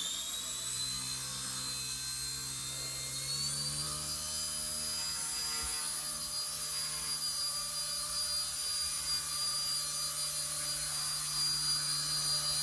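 Blade mCP X BL2 micro RC helicopter's brushless motor and rotor blades running with a steady high whine, the pitch stepping up a little about three and a half seconds in.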